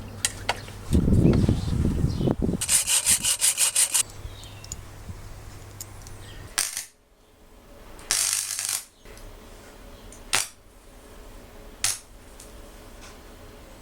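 Hand-work sounds of small metal parts and hand tools being handled: a low thud, then a quick run of about ten even clicks, a short burst of rustling noise, and a couple of single sharp clicks.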